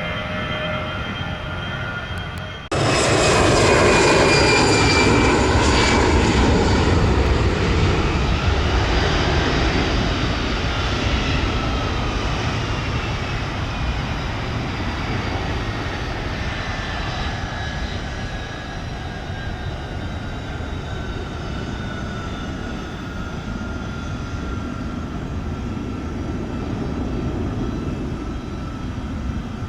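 Jet aircraft engines passing close by. The engine noise jumps up suddenly about three seconds in and is loudest just after. It then fades slowly while the engine whine glides down in pitch as the aircraft moves away.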